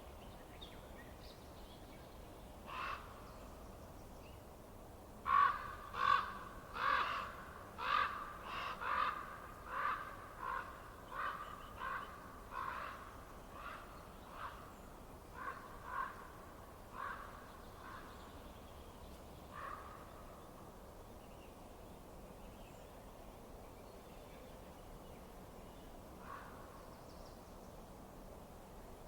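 A bird calling over and over: about twenty short, harsh calls, one near the start, then a quick run from about five seconds in that gradually spaces out and fades, with one last call near the end. A faint steady hiss runs underneath.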